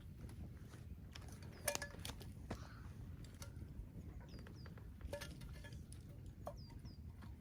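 A small bird chirping a few times in short, high pairs, over a steady low rumble with scattered sharp clicks and knocks, the loudest about a second and a half in.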